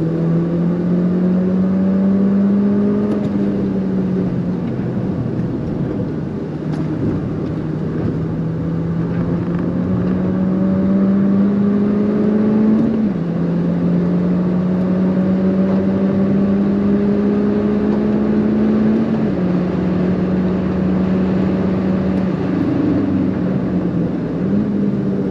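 Mini Cooper R56 John Cooper Works turbocharged 1.6-litre four-cylinder engine heard from inside the cabin, pulling hard on track. The engine note climbs slowly through each gear and drops sharply at upshifts about halfway through and again about three-quarters through. The pitch jumps back up near the end.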